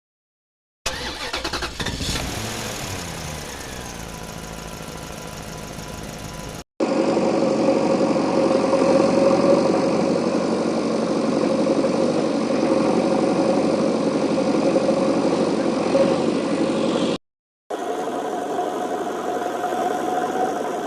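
Engine running in three cut-together stretches. A start with pitch sweeping down in the first couple of seconds settles into a steady run. It then cuts to a louder, steady engine note, and after a brief gap to a quieter steady run.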